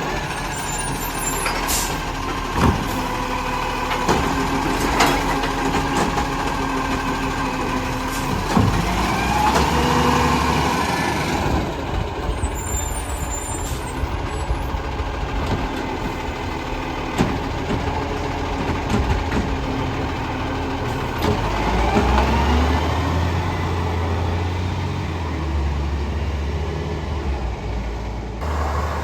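Garbage truck working at close range: its engine runs throughout, with scattered sharp knocks and clanks and a couple of rising revs.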